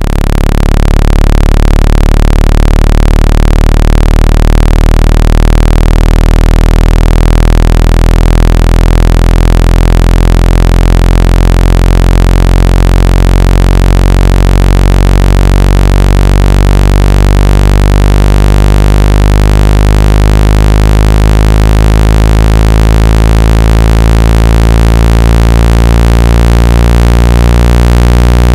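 Loud, steady low-pitched electronic buzzing tone, a water-ejection tone played to shake water out of a phone or earphone speaker. It swells in during the first second, and its overtones shift slowly.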